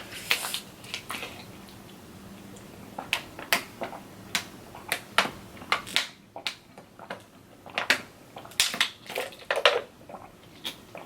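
A person chewing crunchy food close to the microphone: irregular crunches and wet mouth clicks.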